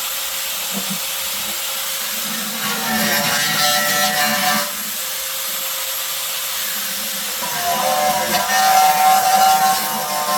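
Handheld power tool running steadily, with a louder pitched whine twice as it works.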